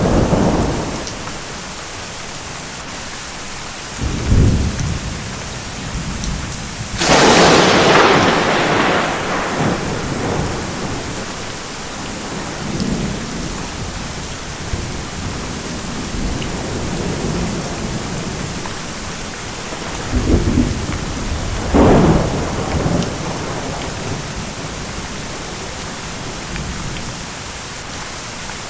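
Thunderstorm: steady heavy rain with repeated thunder. There is a crack right at the start, a low rumble about four seconds in, a loud sharp crack rolling off into rumble at about seven seconds, and two more claps a little after twenty seconds.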